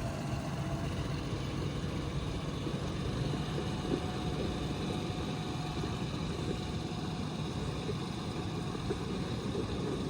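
Digger engine running steadily.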